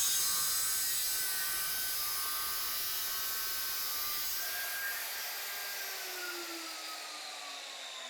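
Hitachi G18Y1 180 mm angle grinder's electric motor running with a steady high whine. From about five seconds in its pitch falls steadily as the motor slows down.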